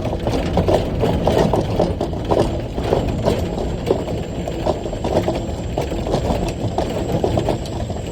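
Heavy rock truck's engine running, heard from inside the cab, with a constant clatter of irregular rattles and knocks from the truck.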